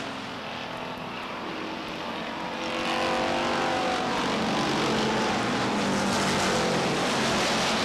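A pack of short-track stock cars racing at speed on the final lap, their engines running together in a steady drone that swells about two and a half seconds in as the field comes nearer.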